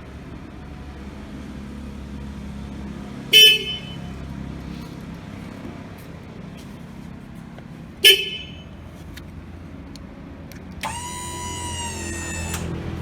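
Electric tow tractor's horn: two short, loud toots about five seconds apart, then a longer tone of about two seconds near the end, over a steady low hum.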